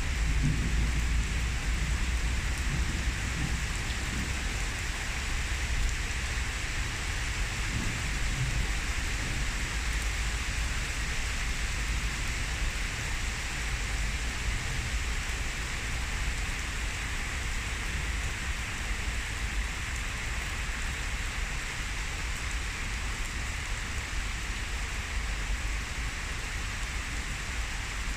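Heavy downpour of rain pouring steadily, with a low rumble of thunder dying away in the first few seconds.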